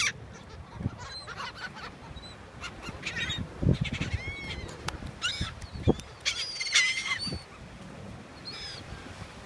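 A flock of birds calling over and over in short, high, arched calls, several overlapping, as they are fed. Two dull thumps come about four and six seconds in.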